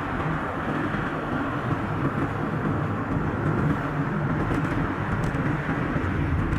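Steady road and engine noise of a car driving, played back at double speed.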